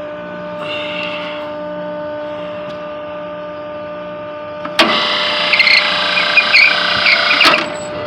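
Steady electrical hum, then a little under five seconds in a belt-driven three-phase exhaust fan is switched on with a sharp clunk. It runs loudly for about three seconds and is cut off with another clunk.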